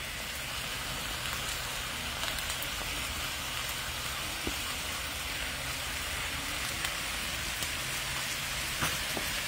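Seasoned turkey pieces sizzling steadily in a pot over the fire, with a couple of faint ticks.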